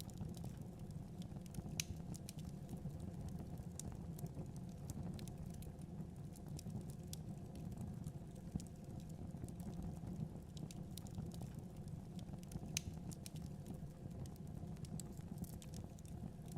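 Wood fire burning in a fireplace: a steady low rumble of flame with scattered, irregular crackles and sharp pops.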